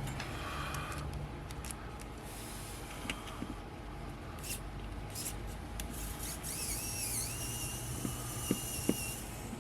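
Small clicks and ticks of a small screwdriver and metal-and-plastic lens parts as a tiny screw is backed out of the lens, over a steady low hum. A thin, high, wavering tone with a hiss comes in about two-thirds of the way through and stops just before the end.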